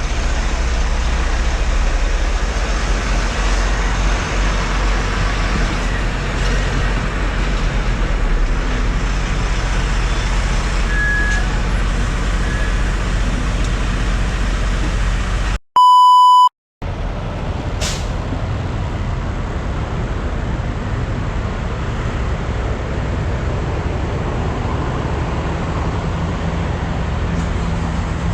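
Steady running noise of a truck underway, a low engine hum under road noise. About halfway through, a loud electronic beep lasting about a second cuts in.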